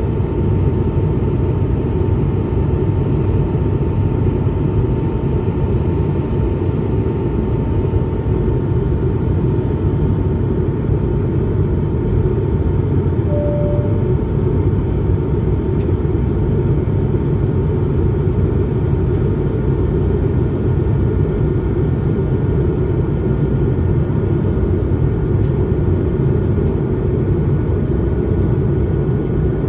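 Airbus A220-300 cabin noise in the climb: the steady roar of its Pratt & Whitney PW1500G geared turbofans and airflow, with a thin steady whine over it. A short single tone sounds once, about halfway through.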